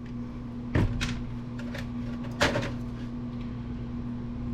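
A few knocks and clicks of computer parts being handled, with stronger ones about a second in and near the middle, over a steady low hum.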